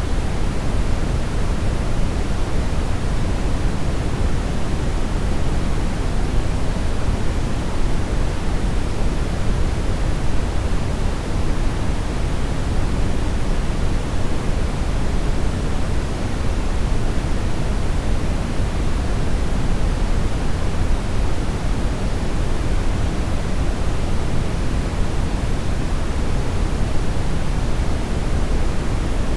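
Steady brown noise: an even, unchanging rumbling hiss, heaviest in the bass and fading toward the treble.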